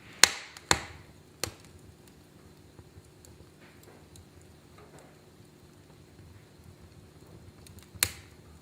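Wood fire crackling in a fireplace: three sharp pops in the first second and a half and another near the end, with faint small crackles between.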